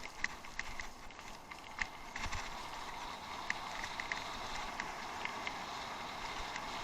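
Bicycle ridden over rough off-road ground: scattered clicks and rattles for about two seconds, then a steady rushing noise as it rolls on.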